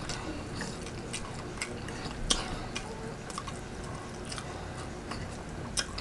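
A person chewing and eating turkey wings, with irregular wet mouth clicks and smacks; the sharpest comes a little over two seconds in.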